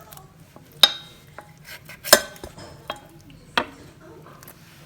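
Dishes and utensils clinking: a handful of sharp knocks with a short ring, the loudest about two seconds in.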